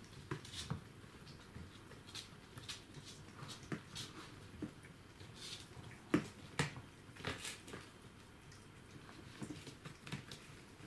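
Border collie puppies about five weeks old moving about, making irregular light taps and clicks, with a louder pair about six seconds in.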